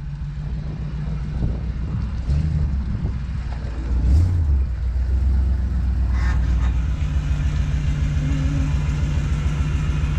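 A truck engine idling: a steady low rumble with a brief swell about four seconds in.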